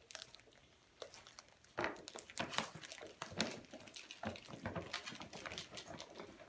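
Recorded bird calls played from handheld toy birds: a run of harsh, clicky call notes starting about two seconds in, mixed with the rustle of the toys being handled.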